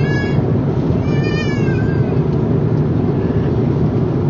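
Steady loud drone of an airliner cabin in flight, with two short high-pitched meow-like cries, one at the start and one about a second in, each bending up and then down.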